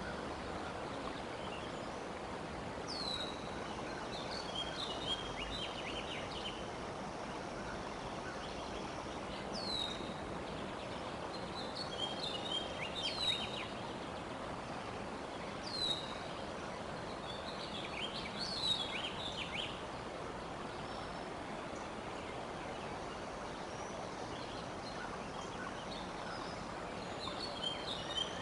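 A wild bird calling a repeated phrase every few seconds: a high falling whistle followed by a short burst of lower notes. A steady outdoor background hiss runs beneath it.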